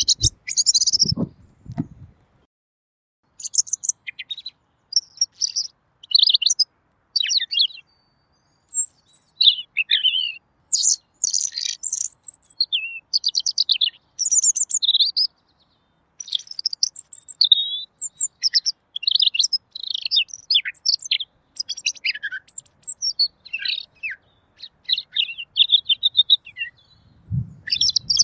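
Pekin robin singing a long run of rapid, varied, high warbling phrases separated by short pauses. A low thud sounds about a second in and another near the end.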